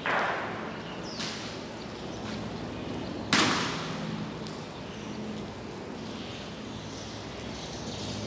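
Sharp, echoing drill impacts from a navy honor guard: a loud one at the start, a fainter one about a second later, and another loud one about three seconds in, over steady background noise.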